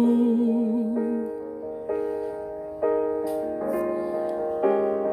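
Worship-song accompaniment: the last sung note of a phrase is held for about a second, then soft keyboard chords are struck about once a second, each ringing and fading.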